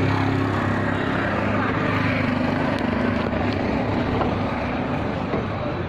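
Car engine idling steadily, heard from inside the cabin. It is running smoothly on a freshly fitted battery, which the owner judges shows no engine problem.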